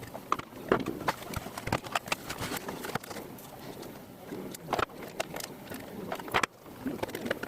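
Irregular clicks and knocks of small plastic and metal parts being handled and fitted, typical of a VCR being put back together.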